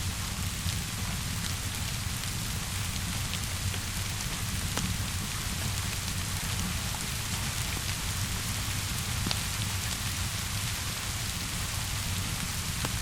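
Steady rainfall hissing on a surface, with scattered sharp crackles and ticks from a wood fire mixed in.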